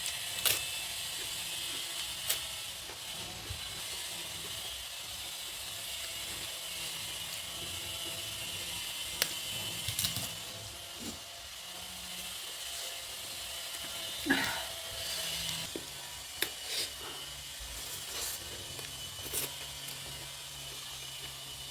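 Close-miked eating sounds: chewing and crunching of crisp food, with scattered sharp clicks, over a steady faint hiss.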